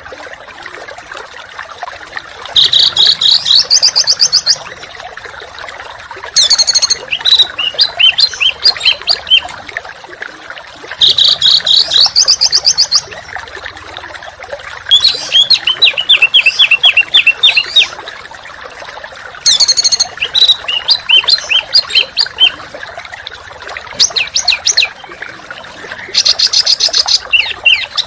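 A songbird singing fast, harsh rapid-fire phrases, each a quick run of repeated high notes lasting one to three seconds, about seven phrases with short pauses between, over a steady background hiss.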